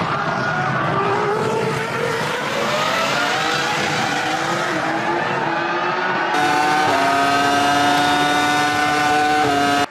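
Formula One 3.0-litre V10 engines at race speed, the high-pitched note rising as the cars accelerate. About six seconds in, the sound cuts to a steady, high-revving engine note held at constant pitch.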